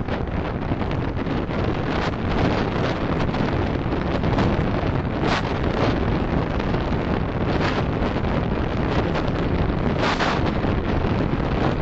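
Steady road and wind noise of a car being driven, with three brief hissing swells spread through it.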